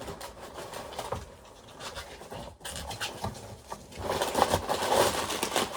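A cardboard box being opened by hand: scattered small clicks and knocks, then from about four seconds in a louder, continuous crinkling and rustling of packaging.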